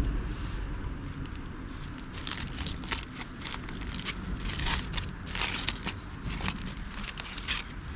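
Campfire crackling and crunching, with many irregular sharp pops and brief noisy bursts.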